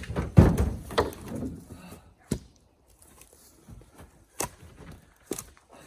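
Cherry firewood blocks being unloaded by hand and tossed onto a pile, wood knocking against wood: a cluster of clattering knocks in the first two seconds, then three single knocks.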